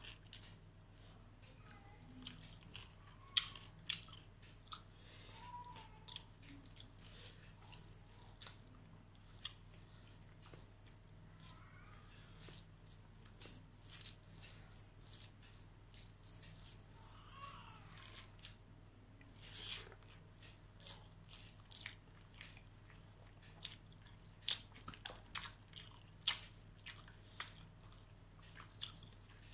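Close-up eating sounds: a person chewing mouthfuls of rice and chicken curry, with many short irregular clicks, and fingers mixing rice on a steel plate. A low steady electrical hum runs underneath.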